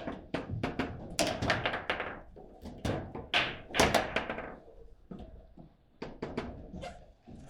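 Table football game in play: a rapid, irregular run of knocks and thunks as the ball is struck by the rod-mounted players and bangs against the table.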